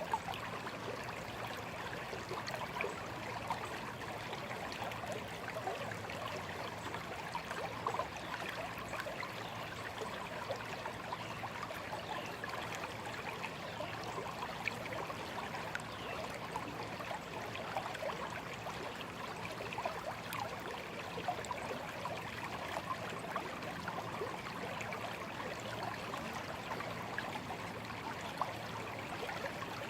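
A small stream running over stones, a steady babbling and trickling of water with many small splashes.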